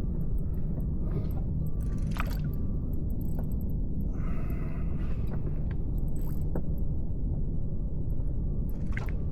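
Steady low rumble of wind on the microphone out on open water, with a few light clicks and a brief splash-like hiss about four seconds in.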